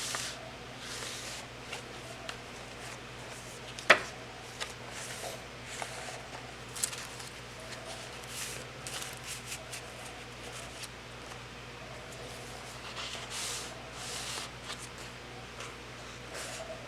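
Paper pages of a thick handmade junk journal being turned by hand: soft rustles and swishes every second or so, with one sharp tap about four seconds in.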